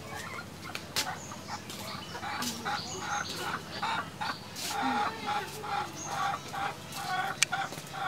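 Birds calling in a run of short, repeated notes, with sharp clicks scattered among them.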